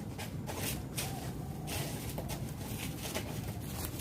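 Rustling and crackling of brush and branches in short, irregular bursts, as people move through undergrowth gathering firewood.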